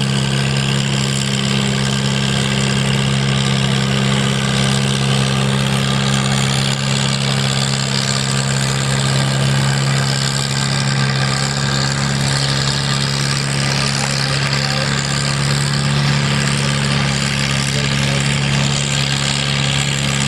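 Tractor engine idling steadily with an even, unchanging low hum.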